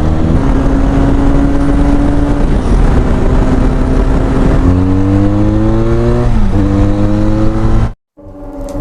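Benelli Leoncino 500's 500cc two-cylinder engine running through an aftermarket Akrapovič exhaust, pulling under acceleration: the pitch holds, then climbs, drops at a gear change about six and a half seconds in, and climbs again. The sound cuts off abruptly near the end, and music begins.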